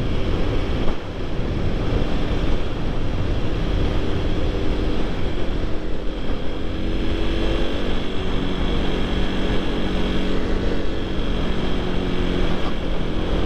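Supermoto motorcycle engine running steadily while riding, with wind rumble on the rider's microphone.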